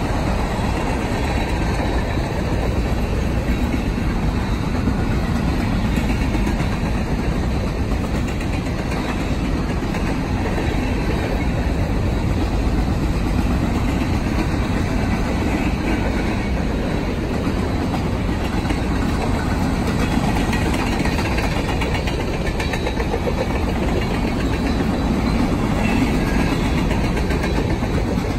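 BNSF freight train's cars rolling past at speed: a steady rumble of steel wheels on the rails with a fast, continuous clatter.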